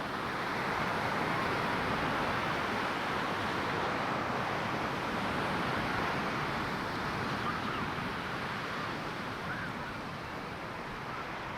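Ocean surf washing onto a sandy beach: a steady rush of breaking waves that swells in the first couple of seconds and eases a little near the end.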